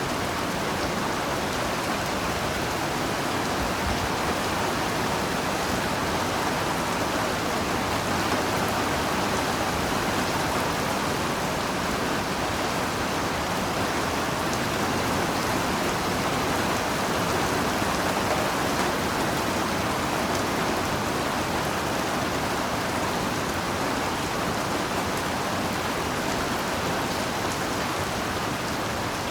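Steady heavy rainfall, a dense even hiss of drops with scattered faint patters.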